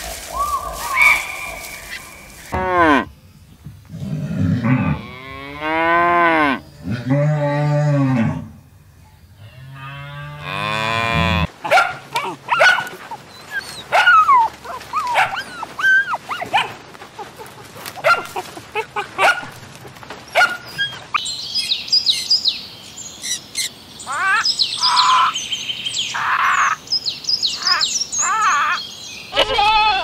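A cow mooing in several long, drawn-out calls. From about halfway through, a group of corgis barks and yips in many short, quick calls, some high-pitched.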